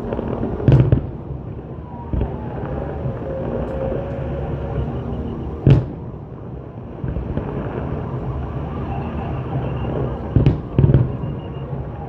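Aerial fireworks shells bursting: sharp, separate bangs about a second in, again near the middle, and a quick pair near the end, over a steady background din.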